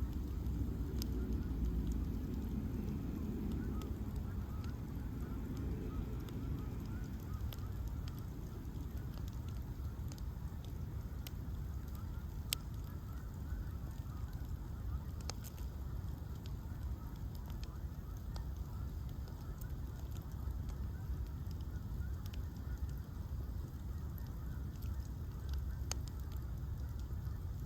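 Bonfire of ash logs burning, a steady low rush of flame with irregular sharp crackles and pops scattered throughout. Over the first four seconds a second, lower sound with a pitched pattern sits under the fire.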